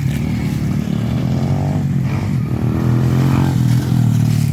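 Motocross motorcycle engine running loudly, its revs rising and falling a couple of times.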